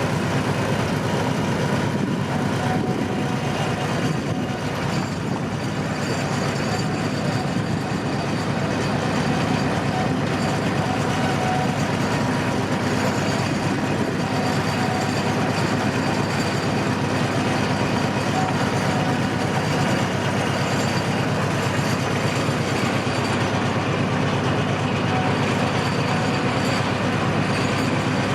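Narrow-gauge tourist train running steadily along the track, heard from on board: a continuous rumble of the train and its wheels on the rails.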